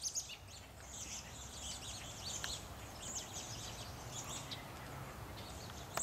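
Small birds chirping: many short, high chirps scattered throughout, over faint outdoor background noise.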